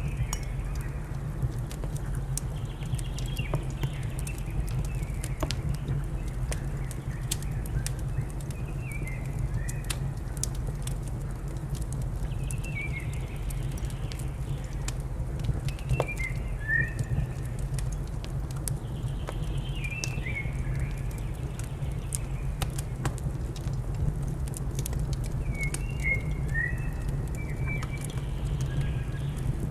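Wood fire crackling with scattered sharp pops over a steady low rumble, while small birds chirp in short phrases every few seconds.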